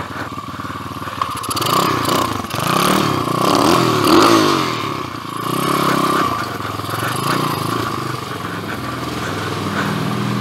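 2007 PitPro 140cc pit bike's single-cylinder four-stroke engine running under a rider. The revs rise and fall several times a couple of seconds in, then settle to a steadier low throttle.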